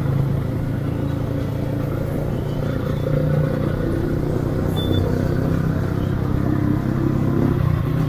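Yamaha R15 V2's single-cylinder engine running steadily while the motorcycle cruises in traffic.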